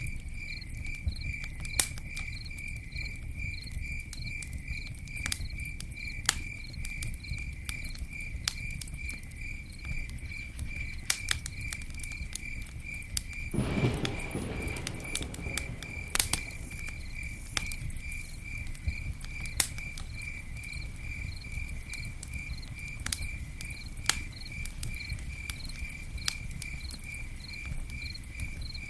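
Campfire crackling and popping with sharp irregular snaps over a low rumble, while a cricket chirps steadily about twice a second. Just under halfway through, a louder hiss swells up and fades over about two seconds.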